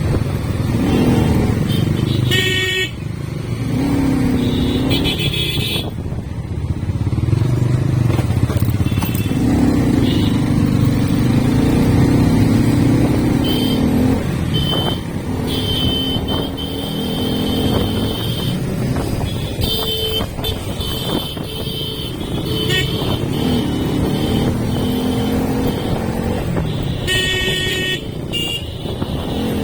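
Motorcycle engine running under way, its pitch rising and falling with the throttle, with vehicle horns beeping several times in short bursts.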